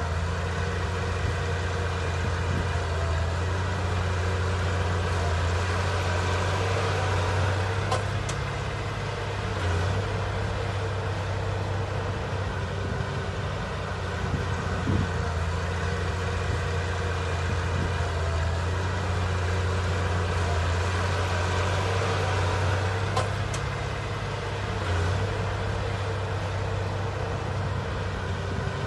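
Heavy diesel engine of earthmoving machinery running steadily under load, with a low even drone throughout.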